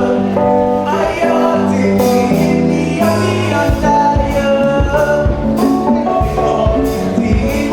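Church gospel music: singing over held instrumental notes, with a regular drum beat coming in about two seconds in.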